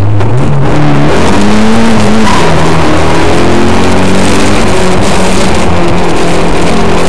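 Datsun 1600's four-cylinder engine running loud at high revs, heard from inside the cabin, its pitch rising and falling repeatedly as it accelerates and backs off through the corners.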